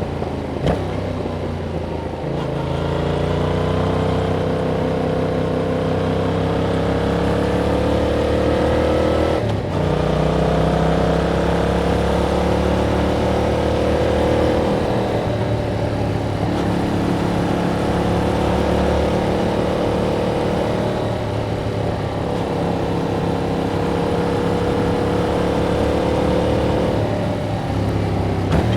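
Yamaha MT-07's parallel-twin engine through its stock exhaust, heard from the bike while riding. The revs climb slowly, drop with gear changes about ten and fifteen seconds in, then hold fairly steady with a dip near the end.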